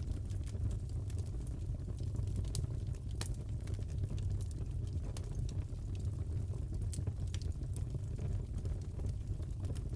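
Fireplace fire crackling: a steady low rumble with scattered, irregular sharp pops.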